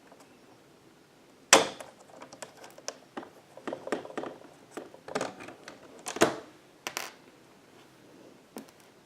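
Hand tools and small parts handled on a work surface during a DIY repair: an irregular run of sharp clicks and knocks. The loudest comes about a second and a half in, with another strong knock a little past the middle.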